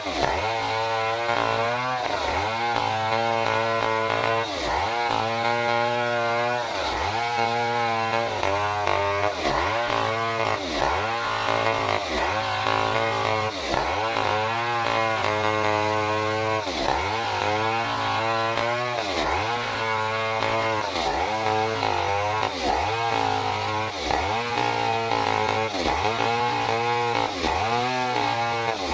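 Stihl 070 two-stroke chainsaw running at high revs while cutting wood lengthwise, its pitch dipping and recovering about once a second as the chain bites and frees.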